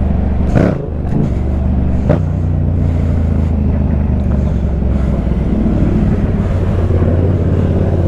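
Motorcycle engine running at a steady cruising speed while riding, with road and wind noise and two brief bursts of noise about half a second and two seconds in.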